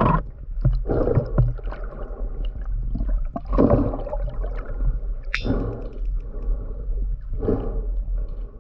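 Huge male sperm whale clicking underwater: loud, metallic, clanging clicks over a steady underwater rumble and water noise.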